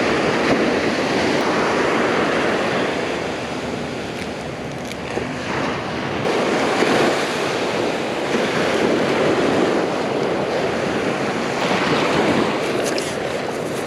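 Ocean surf breaking and washing up the beach: a steady rush of water noise that swells and eases every few seconds.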